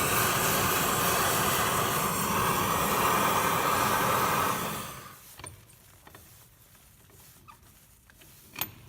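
Forge running with a loud, steady rushing hiss while bolts are heated in it. It dies away about halfway through, leaving quiet broken by a few light clicks.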